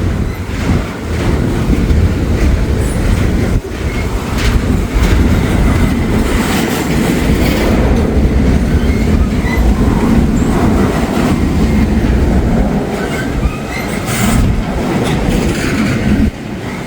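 Freight train cars rolling past: a steady heavy rumble with the clickety-clack of wheels over rail joints. It gets quieter near the end.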